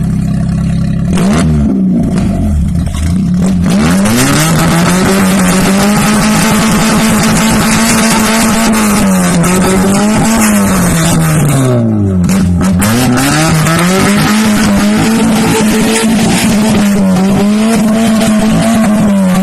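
Car engine with a loud modified exhaust revved hard and held at high revs, dropping back and climbing again several times, with one deeper drop about twelve seconds in.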